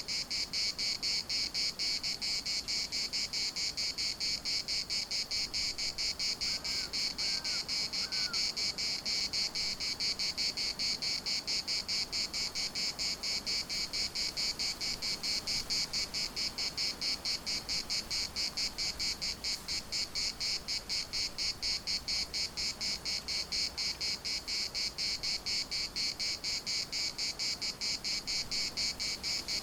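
Cicadas singing in a dense chorus, a shrill, fast, even pulsing that holds steady throughout.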